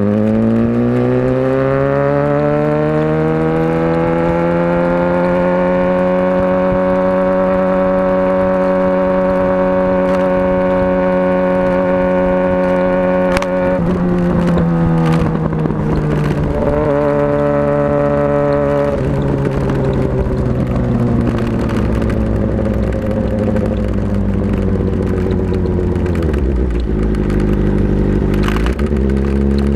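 Motorcycle engine running under way: it accelerates with rising pitch, holds a steady speed, then drops in pitch about halfway through. It dips again near the end before pulling up once more.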